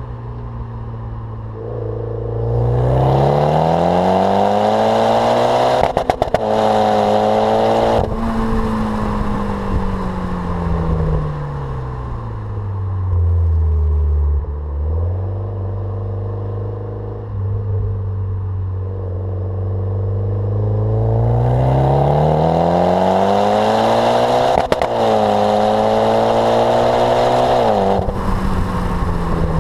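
Mitsubishi Lancer Evolution X's turbocharged 2.0-litre four-cylinder through a catless Milltek turbo-back exhaust. The revs climb, hold for a few seconds, then fall away slowly, and this happens twice. There are a few sharp crackles at the top of each run.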